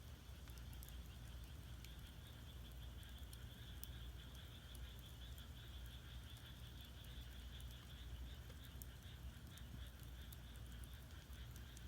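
Firewood burning in a Korean agungi furnace firebox, with scattered small sharp crackles and a low steady rumble, over a continuous high pulsing chorus of frogs.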